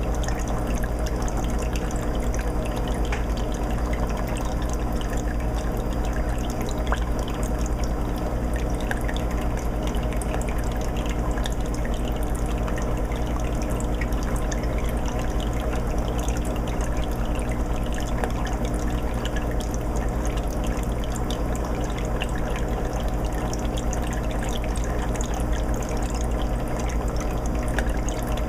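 Aquarium filter running in a 20-gallon fish tank: water trickling and bubbling with many tiny drips and ticks, over a steady low hum.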